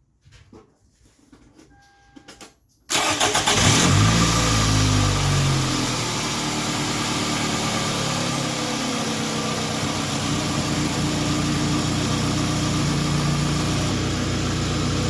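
A 2008 Toyota Camry engine cranked and started about three seconds in, after a few faint clicks and a short beep; it revs up briefly on catching, then settles into a steady idle on freshly fitted spark plugs and ignition coil, replaced to cure a misfire.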